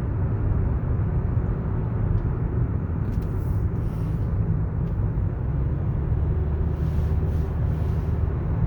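Steady low road and drivetrain rumble heard inside the cabin of a moving 2015 Toyota Camry SE, with faint hiss rising and falling twice.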